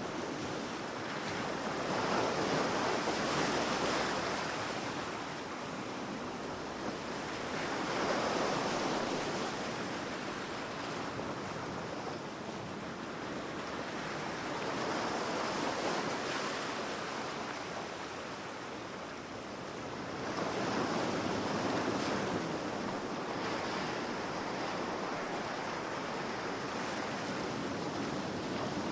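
Ocean waves breaking on a beach, the surf rising and falling in slow swells every five or six seconds.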